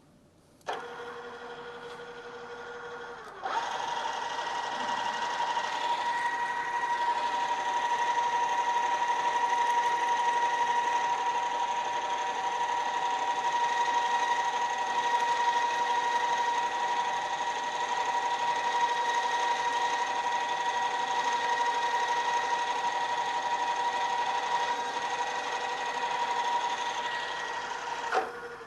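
Drill press running, then drilling a 1/4 inch hole into 3/4 inch bar stock with cutting fluid. A steady hum starts about a second in. A few seconds in it turns into a louder, steady, whining cut that holds until the machine stops near the end and winds down.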